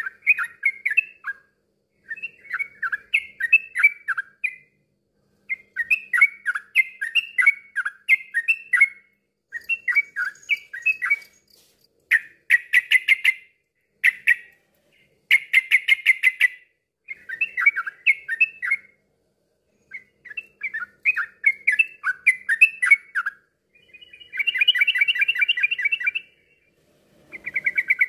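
Yellow-vented bulbul (trucukan) singing: a string of bubbling, warbling phrases, each a second to three long, separated by short pauses. A few phrases near the middle and end are denser and chattering.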